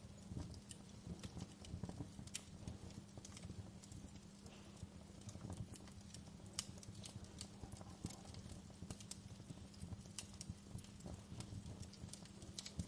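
Wood fire burning in a fireplace: irregular sharp crackles and pops of the burning logs over a steady low rumble.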